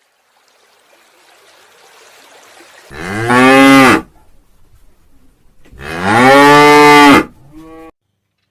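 Cow mooing: two loud, drawn-out moos of about a second each, followed near the end by a short, faint third call.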